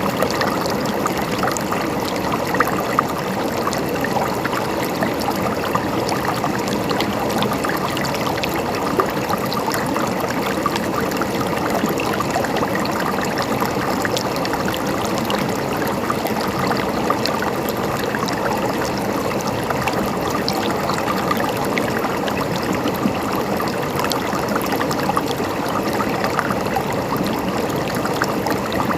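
River water flowing and gurgling over rocks: a steady, dense rush with many small splashes and trickles.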